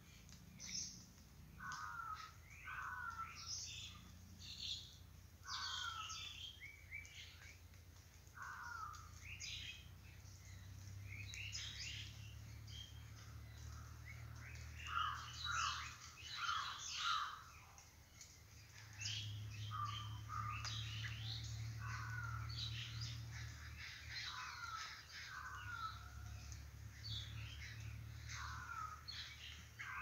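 Several wild birds calling and chirping in short, separate calls, over a low steady hum.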